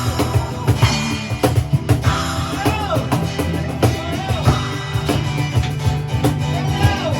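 Rock band playing an improvised piece: busy drum kit and guitar, with wavering, arching tones above them.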